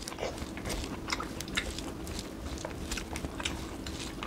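Close chewing and biting of food eaten by hand, with a scatter of short crisp crunches and clicks.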